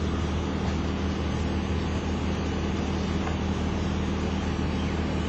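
A steady low mechanical hum over a constant hiss, unchanging throughout, like a running engine or motor.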